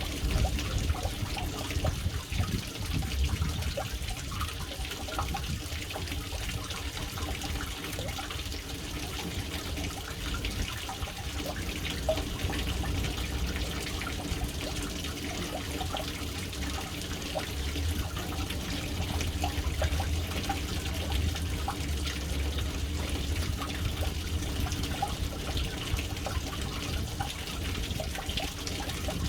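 Water falling steadily into a household water tank (caixa d'água), a continuous splashing trickle over a low rumble.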